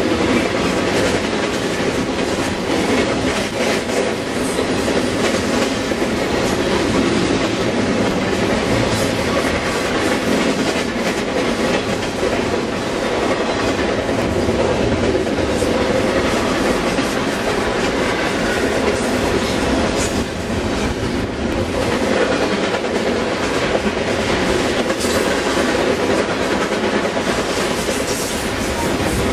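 Double-stack intermodal container freight cars rolling past, close and steady: a continuous rumble of wheels on rail with a dense clatter of wheel clicks.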